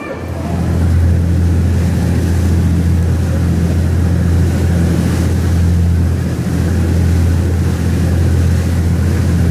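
Boat engine running with a steady low drone that builds up over the first second and then holds, with a rush of water and air over it.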